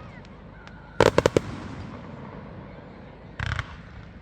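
Fireworks display: a quick cluster of four or five sharp bangs about a second in, then a short rushing burst a couple of seconds later, the kind of pattern a shell launch and its aerial bursts make.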